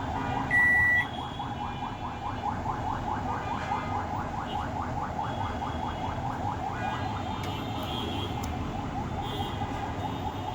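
Microwave oven running with a steady hum. One short, high electronic beep sounds about half a second in.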